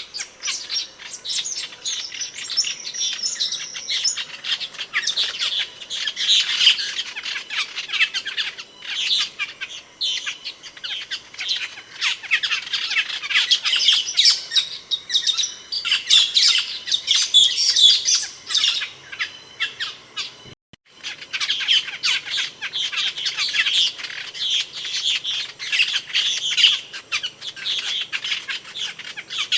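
Asian glossy starling calls: a dense, continuous run of sharp, high chirps and squawks, with a momentary gap about two-thirds of the way through.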